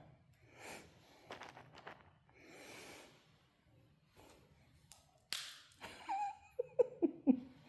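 Quiet room sounds: soft breaths or sniffs, a sharp click about five seconds in, and a few short, soft pitched sounds near the end.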